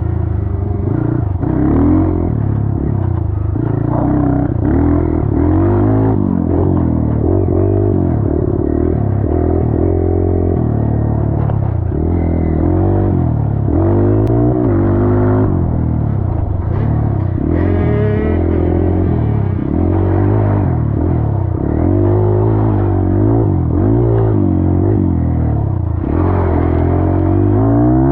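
Dirt bike engine being ridden, revving up and down over and over as the throttle opens and closes.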